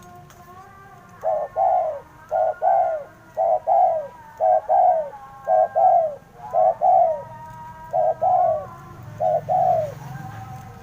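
Spotted dove cooing: a run of loud paired coos, about one pair a second, starting about a second in. Faint whistling bird calls run underneath.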